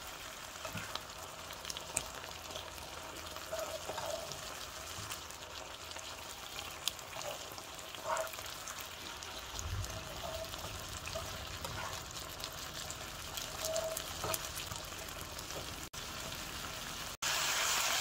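Ground chicken frying in its sauce in an electric skillet, a steady sizzle with scattered clicks and scrapes of a plastic spatula stirring against the pan. Near the end the sound cuts out briefly twice and comes back louder.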